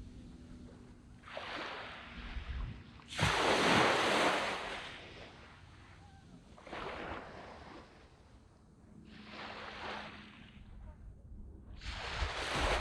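Small waves breaking and washing up a sandy beach, one surge every few seconds, the biggest about three seconds in.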